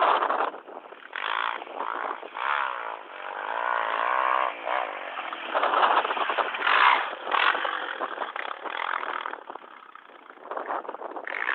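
Motocross dirt bike engine revving up and down in repeated surges, its pitch rising and falling as the throttle opens and closes, with a brief lull about ten seconds in.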